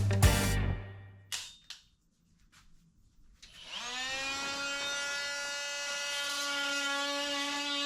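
An electric power tool's motor spins up over about half a second, runs at a steady speed with an even whine, and then stops. Background music fades out before it starts.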